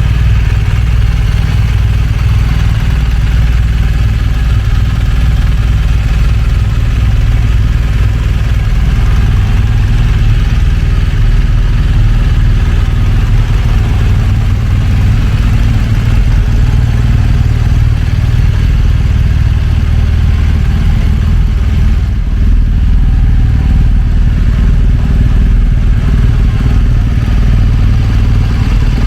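BMW R1200GS boxer-twin engine running steadily at idle, heard at the exhaust.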